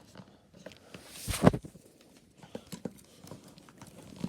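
Handling noise of a gift bag as a small stuffed bear is pushed into it: light rustling and small clicks, with one louder bump about a second and a half in.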